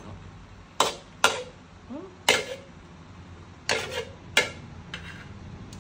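A series of about six sharp knocks or clacks at uneven intervals, with a short rising squeak about two seconds in.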